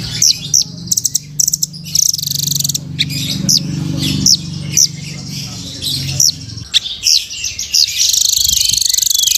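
Nuthatch (rambatan) calling: a rapid, irregular series of sharp, high, upward-sweeping chirps and short trills. A steady low hum runs underneath and stops about two-thirds of the way in.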